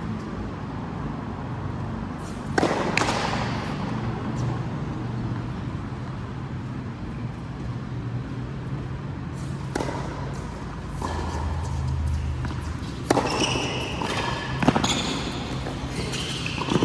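Ball being struck by rackets and bouncing off the court in an echoing hall: a handful of sharp hits several seconds apart, closer together near the end, over a steady low hum.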